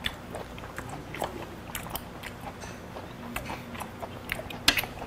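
A person chewing a mouthful of food close to the microphone: soft, wet mouth clicks and smacks, with one sharper click near the end.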